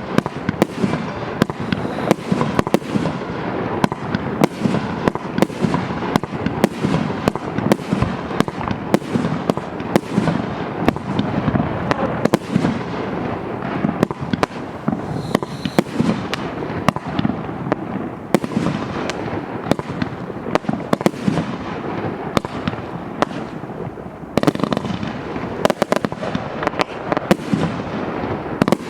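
Maxsem MC12200 fireworks going off in a rapid, unbroken string of launches and bursts, several bangs a second.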